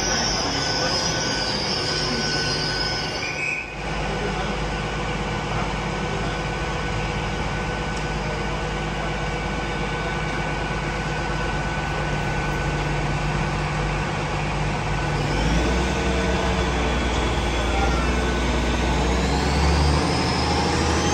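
Great Western Railway Hitachi Intercity Express Train: high wheel squeal as it draws to a stop, ending about three and a half seconds in, then a steady hum from the train standing at the platform. From about fifteen seconds in, a deeper rumble builds and a whine climbs steadily in pitch as the train powers up.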